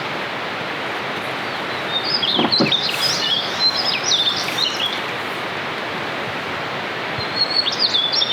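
Steady rain hiss, with a bird chirping in quick bursts from about two seconds in for a few seconds, and again near the end.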